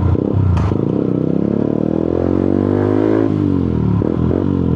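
125cc motorcycle engine pulling away under throttle, its pitch rising steadily, dropping sharply about three seconds in at a gear change, then climbing again.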